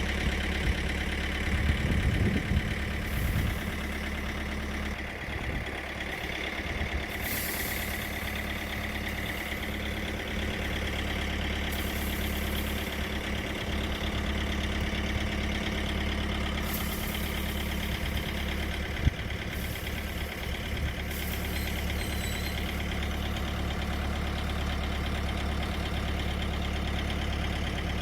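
An engine running steadily at idle, with a single sharp knock about two-thirds of the way through.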